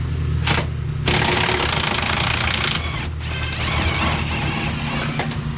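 Impact wrench hammering for about two seconds, starting about a second in, on a stuck rear leaf spring bolt that will not break loose. A steady low engine drone runs underneath.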